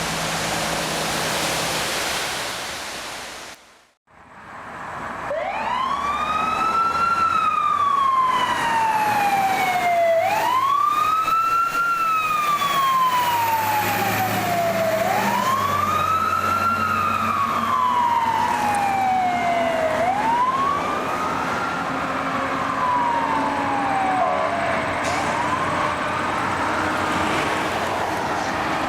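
An emergency vehicle siren wailing: the pitch climbs quickly and sinks slowly, repeating about every five seconds, with the vehicle's engine underneath. The siren grows fainter in the last few seconds as the vehicle moves off. It is preceded by a few seconds of steady hiss that cuts out abruptly.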